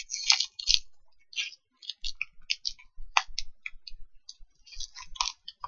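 Close-up chewing of a crunchy, cereal-like chocolate snack: irregular small clicks and crunches from the mouth.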